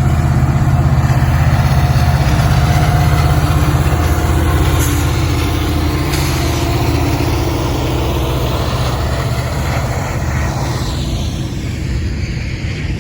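Diesel-electric freight locomotives working hard under a heavy load, their engines running loud with a steady low drone. The drone eases somewhat over the last few seconds.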